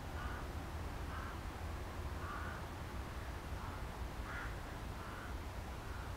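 A bird giving short repeated calls, about one a second, over a steady low rumble.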